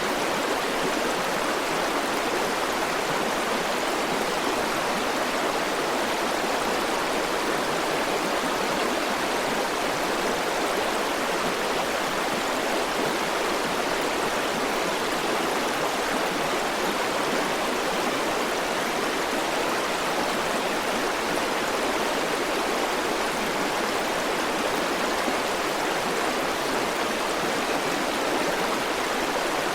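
River water flowing steadily over rocks, an even, unbroken rush of running water.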